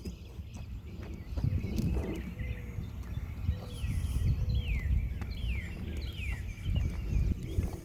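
A songbird calling four times in a row, each a short whistle sliding downward, over a low rumble from the wheeled garbage can being pulled along the road.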